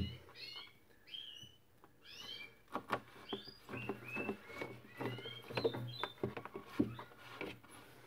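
Small birds chirping in the background, many short, high calls that glide up and down. Under them are light clicks and rustles of a plastic hose and container being handled.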